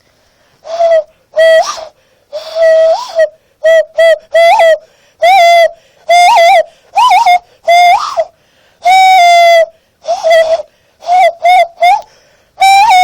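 Hand whistle played by blowing across the gap between the thumbs of cupped hands: a loud run of some twenty short hooting notes on one low pitch, many flicking briefly up in pitch and back, a few held for about a second.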